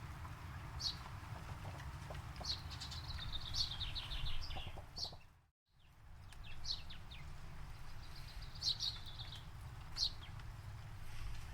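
Small forest birds chirping and twittering in quick high trills over a steady low rumble. The sound fades to silence for a moment about halfway through, then comes back.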